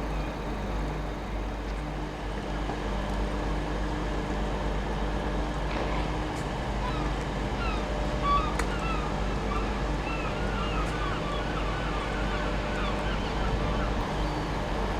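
Steady low hum of an idling diesel train engine, with birds chirping from about six seconds in and a single sharp click a little after eight seconds.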